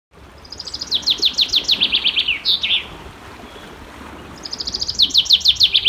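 A songbird singing twice: a phrase of rapid, high chirps that fall in pitch and speed up, ending in two lower notes, the two phrases about four seconds apart.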